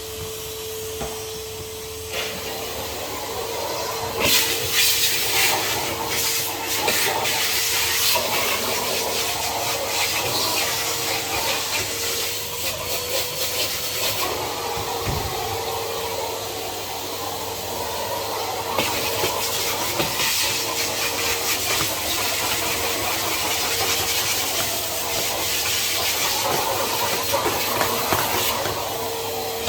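Henry HVR200 620 W vacuum cleaner running: a steady motor whine under a rushing hiss of air that swells and fades, louder from about four seconds in.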